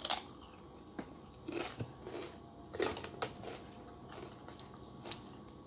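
A person biting and chewing chicken biryani. A sharp click comes right at the start, then short scattered bites and chews about a second apart.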